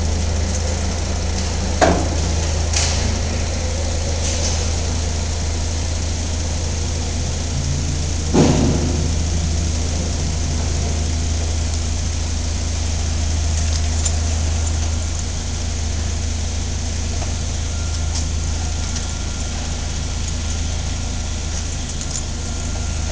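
Steady low machinery hum, with a sharp clunk about two seconds in and another about eight seconds in.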